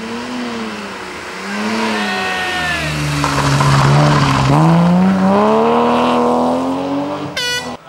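BMW E30 3 Series rally car's engine working through a tight bend: the revs dip and rise as the car comes in, run low and loudest as it passes about four seconds in, then climb steadily as it accelerates away. The sound cuts off abruptly just before the end.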